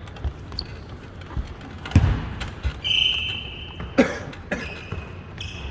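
Basketball game play in a gym: the ball thuds on the court a few times, loudest about two seconds in, and short high squeaking tones come between.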